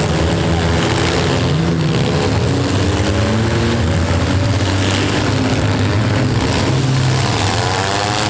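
Several demolition-derby van and truck engines running together, loud and steady, with one engine revving up about seven seconds in.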